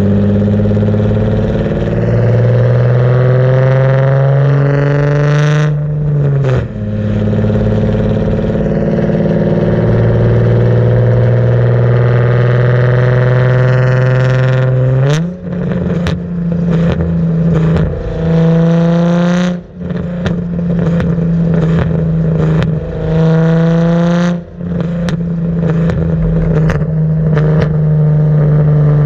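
Car engine through a Tomei cat-back exhaust, loud, pulling through the gears under acceleration: the note climbs in each gear and drops at upshifts about 6, 15, 20 and 24 seconds in. Short sharp cracks come between the shifts in the second half.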